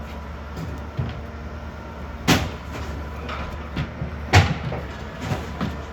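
Roll-off truck idling with a steady low rumble, broken by two loud bangs about two seconds apart and several lighter knocks.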